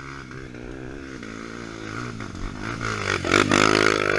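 Dirt bike engine running, climbing in pitch and getting louder as the throttle opens about three seconds in.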